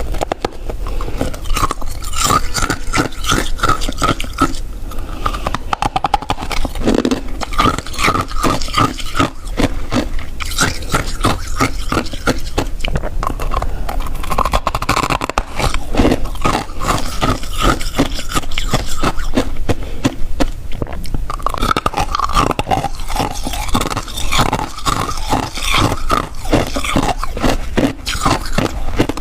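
Crunchy freezer frost being bitten and chewed close to the microphone: a dense, continuous run of rapid crunches.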